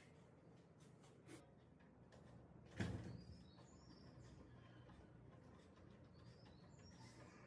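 Faint high bird chirps scattered through near silence, with a few small clicks and one sharper knock about three seconds in.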